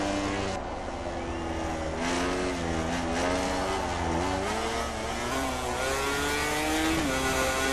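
MotoGP racing motorcycle engine revving hard, its pitch climbing through the revs and dropping sharply with a gear change about seven seconds in.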